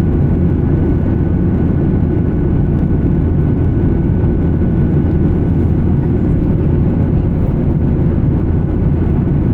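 Steady cabin noise of an Embraer 175 regional jet in flight: an even low rumble of engines and airflow, with a faint steady whine above it.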